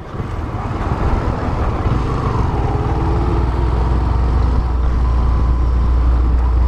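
Honda CB 250F Twister's single-cylinder engine running on the move, with wind rumbling on the camera's microphone. The low rumble grows steadily louder.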